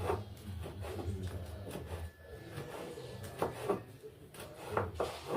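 Knife slicing collard greens thin against a cutting board, a series of irregular knocks.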